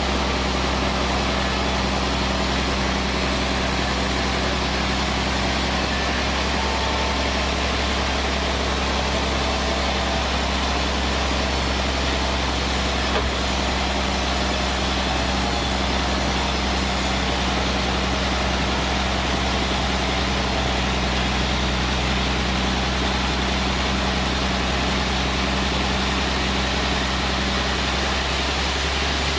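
Band sawmill machinery running steadily: a constant low engine drone with an even hiss over it, unchanging throughout.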